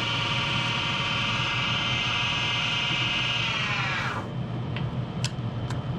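Laguna 12/16 wood lathe's motor running with a steady whine, then switched off about four seconds in and winding down in pitch to a stop. A low hum continues underneath, and a few light clicks follow.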